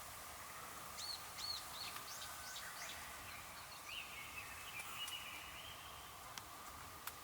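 A bird calling outdoors: a quick run of about five short, high chirps, then a thinner drawn-out call, over steady background noise.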